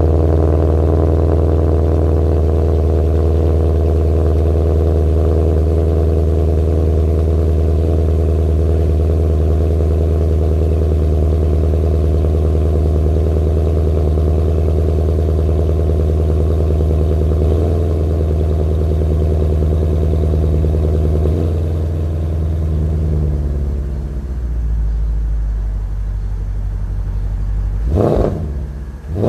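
2013 Porsche Panamera GTS's 4.8-litre V8 running through its factory Sports Exhaust at a steady raised cold-start idle, which drops to a lower idle about 23 seconds in. Near the end the engine is revved twice in quick blips.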